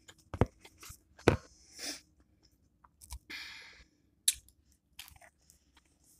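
A person chewing and crunching on chicken quesadilla and corn, with a few sharp clicks between bites.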